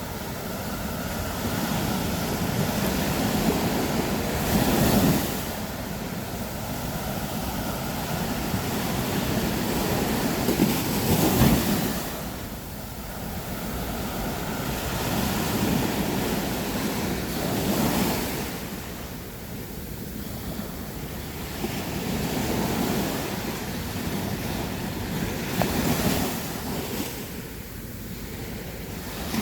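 Sea waves breaking on a sandy beach, the surf swelling and easing every few seconds, with a sharper crash about eleven seconds in. Some wind noise on the microphone.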